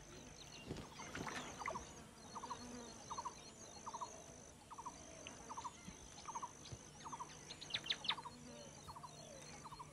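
Faint outdoor wildlife ambience: a small bird's short three-note chirp repeats about every second, over a steady high insect buzz that breaks off now and then.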